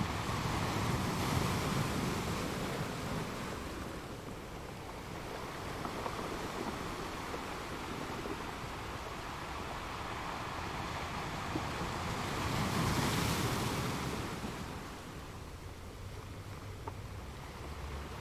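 Sea waves breaking and washing on a shore, a continuous rushing surf that swells in loudness twice, near the start and again a little past the middle.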